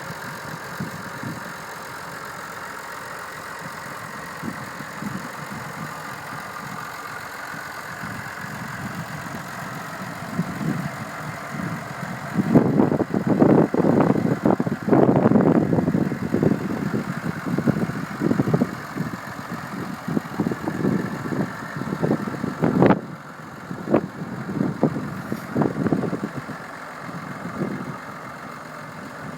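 Massey Ferguson MF 4220 tractor's diesel engine idling steadily, then running louder and uneven for about ten seconds in the middle, with a single sharp click a little after.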